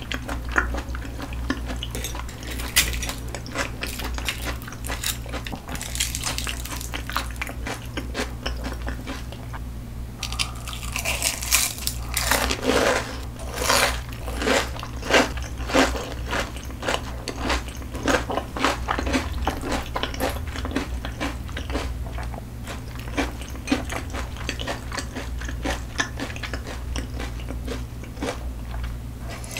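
A person chewing food close to the microphone, with wet chewing and crisp crunches throughout. The crunching is loudest from about 11 to 16 seconds in.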